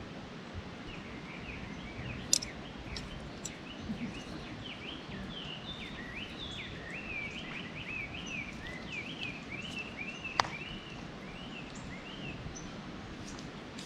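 A small songbird singing a long, rapid run of quick slurred chirps over steady outdoor background noise, with two sharp clicks, one a couple of seconds in and one near the end.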